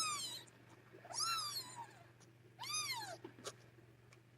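A very young kitten mewing: three short, high cries, each rising and then falling in pitch, spaced about a second and a half apart.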